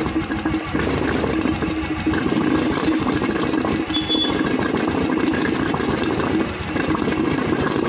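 Royal Enfield Thunderbird 350's single-cylinder engine running steadily at idle.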